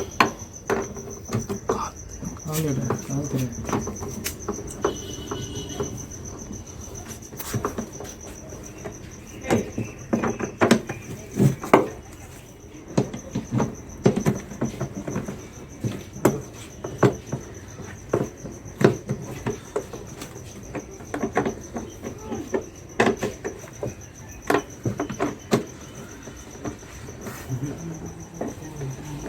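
A cricket trilling steadily on one high note throughout, with scattered sharp clicks and knocks of hand work over it.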